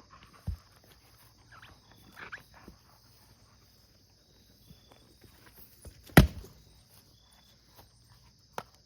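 Firewood being split by hand: one sharp, loud strike on a log about six seconds in, with a few softer knocks and rustles of wood being handled earlier. Crickets chirr steadily and high-pitched throughout.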